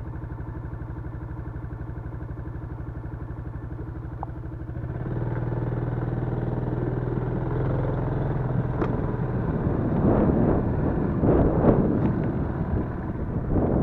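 Yamaha Crypton-X motorcycle's single-cylinder four-stroke engine running steadily at idle, then revving up and getting louder about five seconds in. The last few seconds turn rough and uneven, with knocks and rattles.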